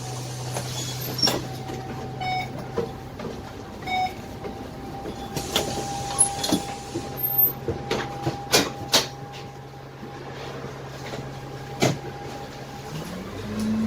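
Dennis Trident double-decker bus's Cummins ISMe six-cylinder diesel idling, heard from inside the lower deck, with a thin steady tone over it and a run of sharp knocks and rattles from the bus body. About 13 seconds in the engine note starts to rise as the bus pulls away.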